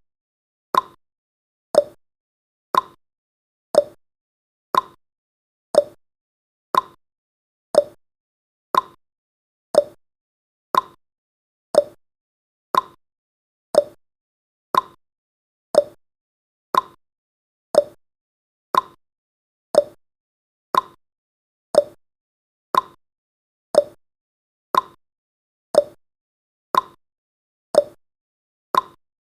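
Countdown timer's ticking-clock sound effect: one short tick each second, alternating higher and lower like a tick-tock.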